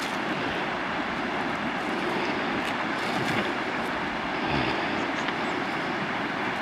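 A steady rushing noise, even and without any clear tone, with a few faint clicks in it.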